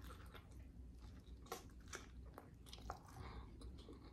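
A person biting into and chewing a loaded pizza slice, heard faintly: soft wet mouth clicks and small crunches, a few sharper ones in the middle.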